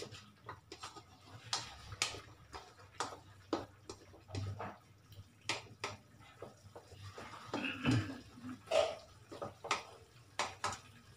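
A spatula scraping and knocking against a metal wok as pork and long green chilies are stirred in sauce, giving irregular clicks and scrapes.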